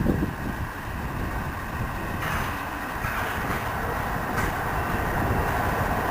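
A train approaching, its running noise slowly growing louder, with a few faint clicks.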